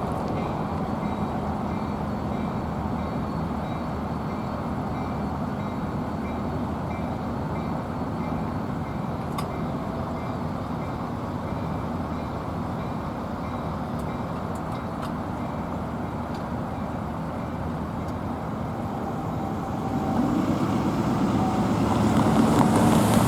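A passing train's cars rolling by on the track, a steady rumble with a low hum, which grows louder about twenty seconds in.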